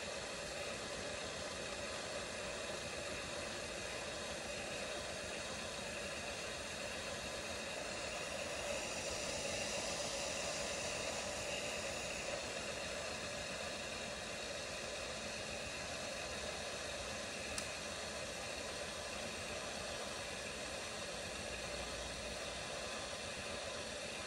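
Zulay Magia super-automatic espresso machine steaming and frothing milk for a cappuccino: a steady hiss that swells a little louder about nine seconds in, with one faint click later on.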